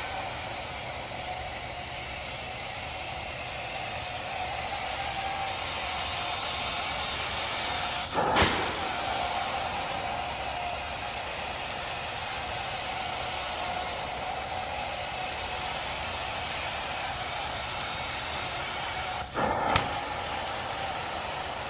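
Truck-mount carpet-cleaning wand spraying hot water and sucking it back up: a steady hissing rush with a faint whistle-like tone. Two brief louder surges come about eleven seconds apart, the second near the end.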